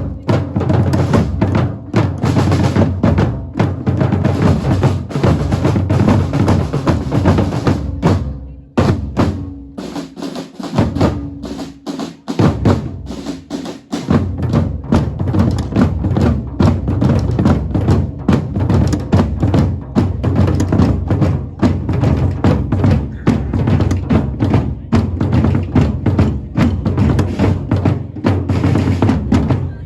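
Music driven by heavy drumming, with a dense run of drum and bass drum hits; the deep drums drop out for a few seconds from about nine seconds in, leaving a held note, then the full beat returns.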